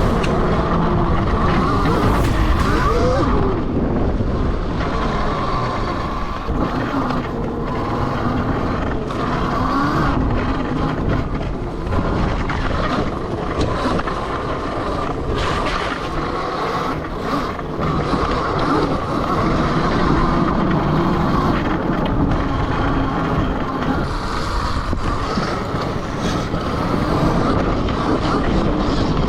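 Elmofo-converted CRF electric dirt bike being ridden: a motor and drivetrain whine rising and falling with speed, over wind buffeting the microphone, with scattered knocks from rough ground.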